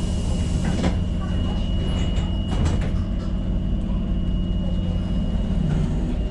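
Tyne & Wear Metro train running: a steady low rumble with a thin, steady high whine over it, and a few short clicks and knocks about a second in and again between two and three seconds in.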